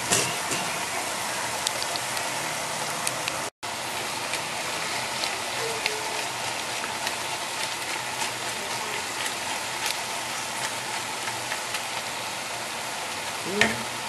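Noodles, bean sprouts and chives sizzling steadily in a hot pan with shrimp stock, with small clicks and scrapes as a wooden spatula tosses them. The sound drops out for an instant about three and a half seconds in.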